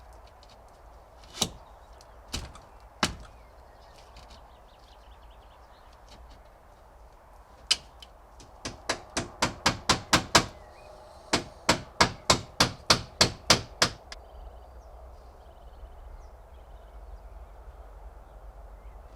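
Hammering on wood: three separate blows, then two quick runs of about four blows a second with a short pause between them.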